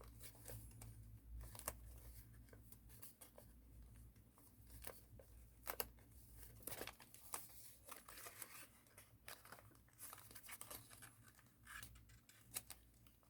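Faint, intermittent crinkling and soft clicks of a thin sheet of origami paper being handled and folded by hand.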